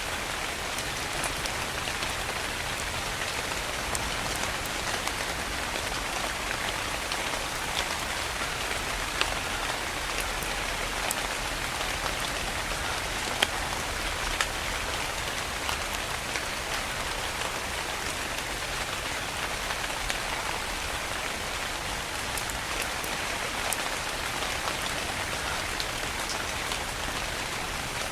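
Steady rain falling, with individual drops ticking sharply here and there over the even hiss of the downpour.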